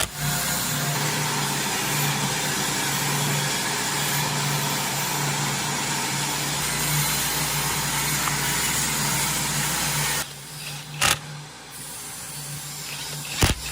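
Small petrol lawn mower engine running steadily, then cutting out about ten seconds in, followed by two sharp clicks.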